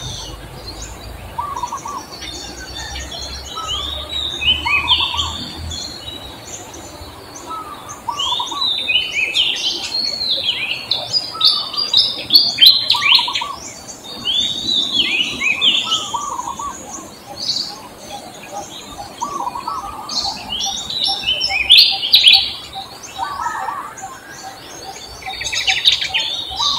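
Birds chirping: phrases of short, quickly repeated sweeping chirps, with softer lower notes between them.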